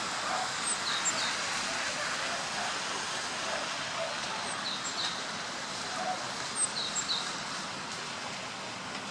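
Steady outdoor background hiss with a small songbird calling in short double chirps, three times a few seconds apart.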